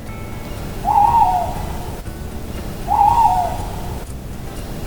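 Owl hooting: two short hoots about two seconds apart, each wavering and then dropping in pitch at the end, over a steady background hiss.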